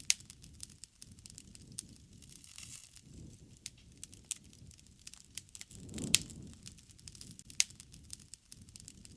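Wood fire crackling: sharp pops and snaps come irregularly over a low rustling rumble of the flames. The loudest snaps are just after the start, near the middle and later on, and the rumble swells briefly about six seconds in.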